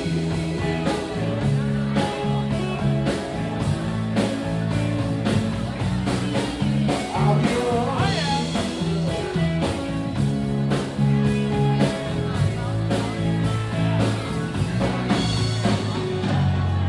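Rock band playing: bass and electric guitar over a steady drum beat, with some singing.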